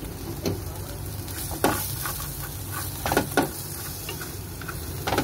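Food sizzling as it fries in a pan, with a few sharp clinks and knocks over it, the loudest about a second and a half in and two more just after three seconds.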